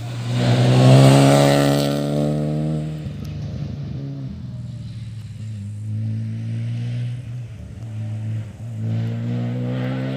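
Rally car engine at high revs passing close, loudest about a second in with its pitch falling as it goes by, then revs dropping and climbing again as it drives on, rising once more near the end.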